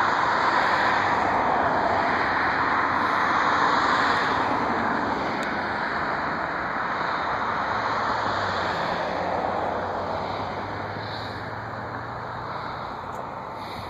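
Jet airliner engines passing overhead: a loud, steady rushing noise that slowly fades away over the seconds.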